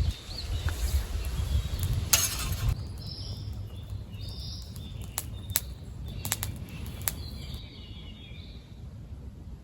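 Outdoor ambience with birds calling in short chirps, a brief rustle about two seconds in, and a few light clicks a little past the middle.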